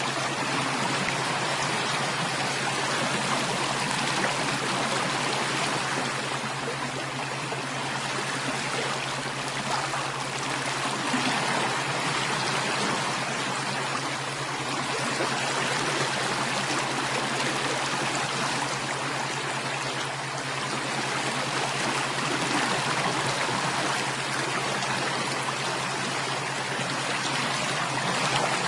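Running water, like a stream, flowing steadily, with a steady low hum underneath.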